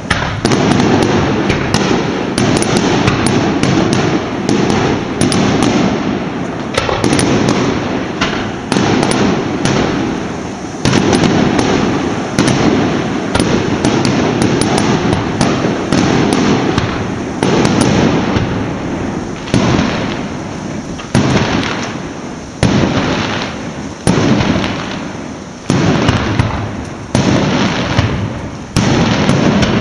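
A continuous barrage of firecrackers going off, loud sharp bangs every second or two over a dense crackle.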